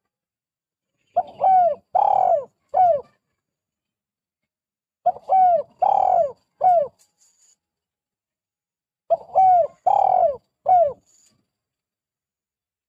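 Spotted dove cooing: three phrases about four seconds apart, each of about four coos, the third coo the longest and loudest.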